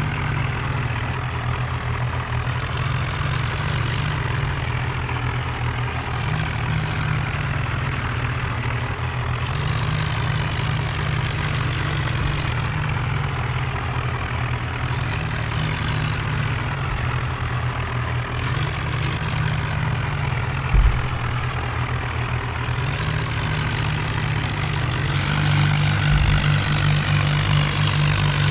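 Diesel tractor engines running steadily under load, with a single sharp knock about two-thirds of the way through and the engine note growing louder near the end.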